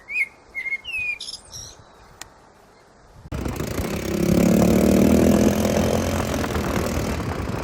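Birds chirping with short, sweeping calls, which stop after about a second and a half. About three seconds in, the sound switches abruptly to a much louder, steady mix of noise and low droning tones.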